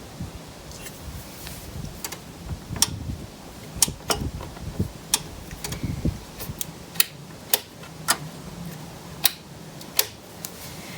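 About a dozen sharp, irregularly spaced clicks and taps from hands working on the horn's wiring, with a few low bumps of handling in the middle. The 12-volt horn itself does not sound: its circuit is not yet working.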